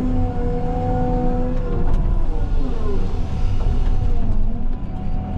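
CAT 323 excavator's diesel engine running under load, with a steady hydraulic whine for the first second and a half or so that then stops as the digging continues.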